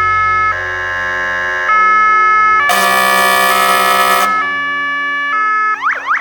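Fire engine siren switching between two tones about once a second, broken by a loud air-horn blast of about a second and a half in the middle. Near the end it changes to a fast, repeating rising yelp.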